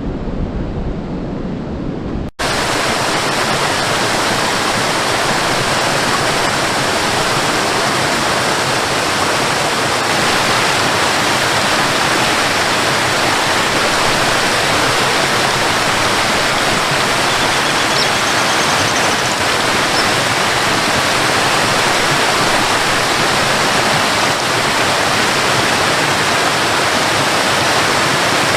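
Waterfall: a loud, steady rush of falling water. For the first couple of seconds there is a deeper rumbling noise instead, which cuts off abruptly.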